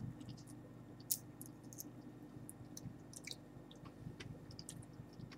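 Faint crisp clicks and crackles from a dried giant water bug (Lethocerus indicus) being picked at and chewed, with one louder click about a second in, over a steady low hum.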